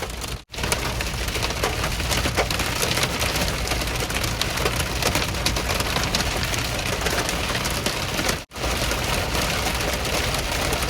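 Hail and heavy rain pelting the roof and windshield of a moving car, heard from inside the cabin: a dense, loud patter full of sharp hailstone ticks over a steady low road rumble. It breaks off for a split second twice, about half a second in and near the end.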